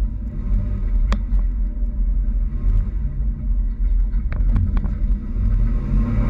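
Toyota Tacoma pickup driving, a steady low rumble of engine and road noise, with a few short sharp clicks about a second in and again around four to five seconds in.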